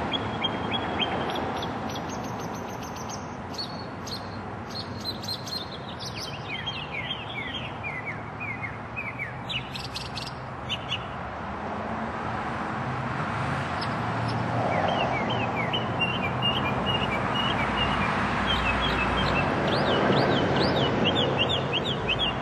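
A songbird singing: runs of quick, high chirps and short sweeping notes, repeated in bursts, over a steady rush of background noise that grows louder in the second half.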